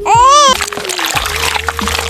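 A high, wailing cry that rises and falls and ends about half a second in, followed by a dense, splashy noise, over sad background music.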